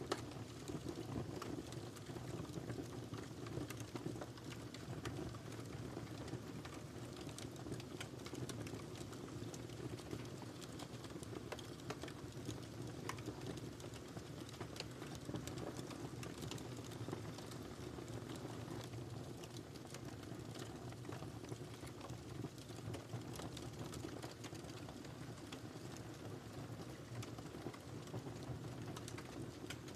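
Wood fire crackling, with frequent small irregular pops and snaps over a steady low rumble.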